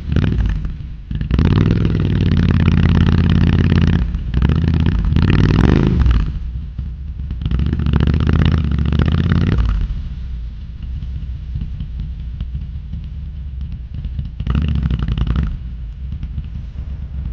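Royal Enfield Hunter 350's single-cylinder engine and exhaust pulling on the move, its pitch dropping partway through as the revs fall, with wind rush on the microphone. The engine is loud for the first half, then quieter, with a short louder burst near the end.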